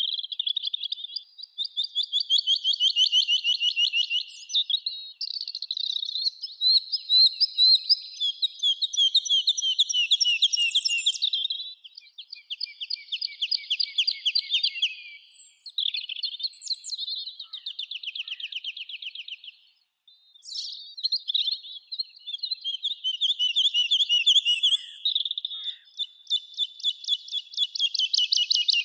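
Songbirds singing: a steady run of high-pitched, fast trilled phrases, each lasting one to three seconds, following one another with short gaps.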